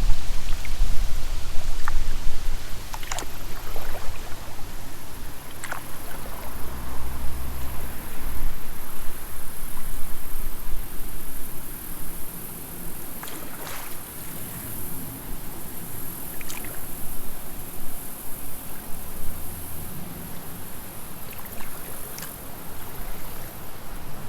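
Creek water running and splashing around a kayak, with scattered short splashes or knocks of the paddle and a heavy low rumble in the first few seconds.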